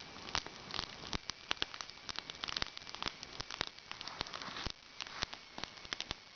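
Campfire of burning wooden pallet crackling, with many sharp irregular pops over a steady hiss.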